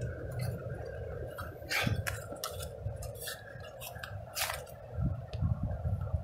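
Camp cooking gear being handled: a string of short clicks and clinks of metal pots and utensils, over a low rumble of wind buffeting the microphone that swells near the end.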